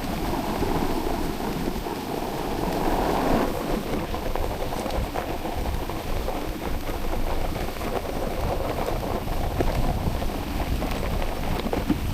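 A dog sled moving over snow: a steady scraping hiss of the runners with a fast, irregular patter of many small ticks, and wind buffeting the microphone.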